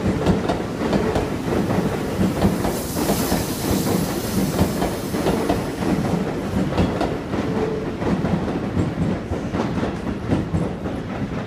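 Electric commuter train running past on the adjacent track, its wheels clicking over rail joints and points over a steady rumble, with a stretch of hiss about three seconds in.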